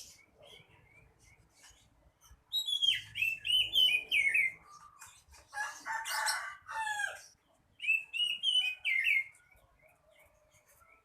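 Oriental magpie-robin (kacer) singing in three short bursts of clear whistled notes stepping down in pitch, with pauses between phrases.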